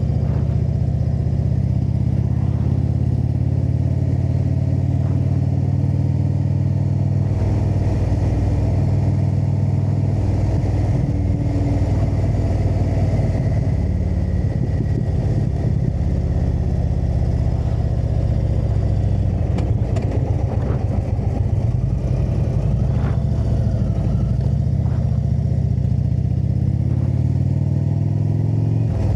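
Indian V-twin motorcycle engine running while riding. Its pitch drops and climbs several times with throttle and gear changes, and it speeds up near the end.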